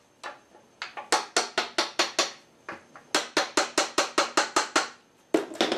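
Rapid light knocks, about six a second in two long runs with a short pause and a few more near the end, as a dowel drives the ash stiles of a Windsor chair out of their through-tenons in the crest rail.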